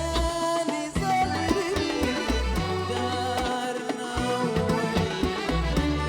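Sudanese band music: an instrumental passage with a bass line, hand percussion and melody instruments, no words sung.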